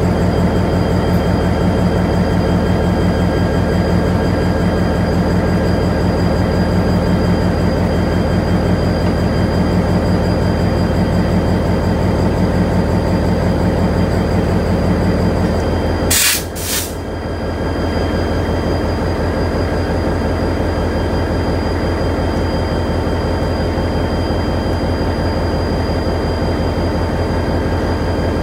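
Steady mechanical drone from a standing passenger train, even in level with several fixed tones. Just past halfway a short sharp knock cuts through and the loudness briefly dips, and one of the tones drops out.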